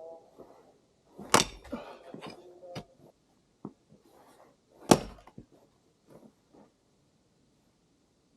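Two heavy wooden thunks about three and a half seconds apart, with lighter knocks and clatter of firewood between and after.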